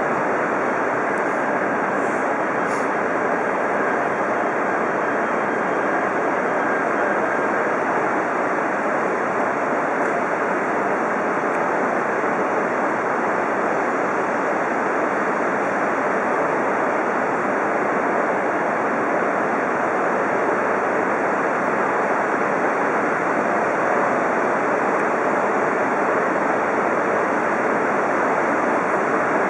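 Steady, even rushing noise of shinkansen trains at the platform, with no distinct knocks or horn, as an E3 series Komachi creeps in slowly to couple.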